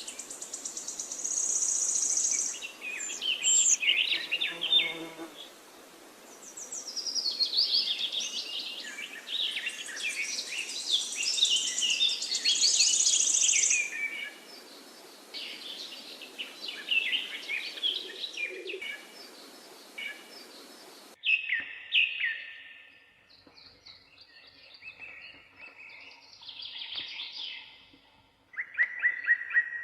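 Several wild birds singing and calling at once, a dense mix of overlapping chirps, trills and whistled phrases over a steady hiss. About two-thirds of the way through the hiss cuts off abruptly and the calls become sparser.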